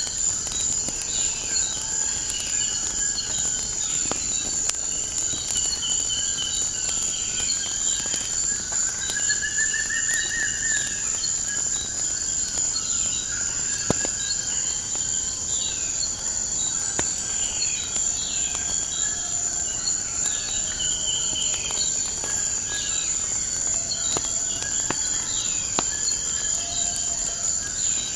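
Crickets chirping in a continuous high drone, with birds calling over it in many short falling chirps and a longer warbling call about ten seconds in. Scattered sharp crackles from a wood fire.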